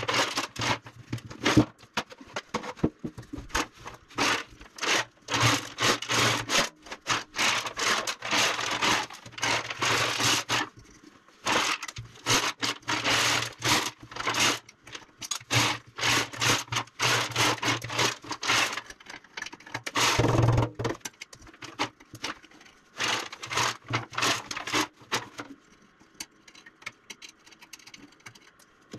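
Rapid back-and-forth scraping strokes on a generator gas tank, in runs with short pauses between them, as the tank is worked by hand during its restoration.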